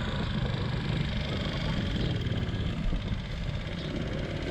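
Steady low rumble of wind buffeting the microphone, with road noise, while riding along on a bike.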